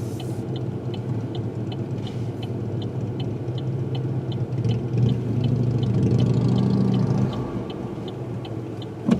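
Car engine running, heard from inside the cabin, swelling a little for a couple of seconds midway, with a turn signal clicking steadily about two to three times a second.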